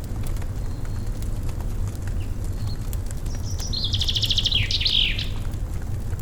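Wood fire crackling with scattered small pops over a steady low rumble, while a songbird sings a fast trill ending in a few downslurred notes about halfway through.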